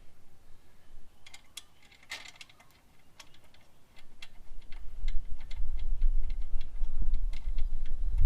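Ratchet wrench clicking in short runs of sharp ticks, tightening the top triple tree clamp on a Harley's front fork. From about halfway a loud low rumble sits under the clicks.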